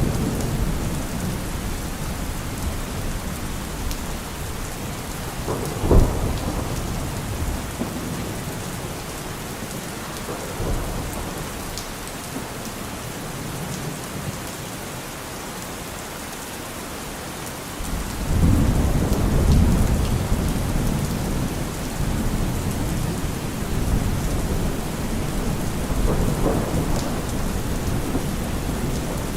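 Steady heavy rain hissing, with thunder: a sharp crack about six seconds in, then a long low rumble of thunder swelling up about eighteen seconds in and rolling on through the rest.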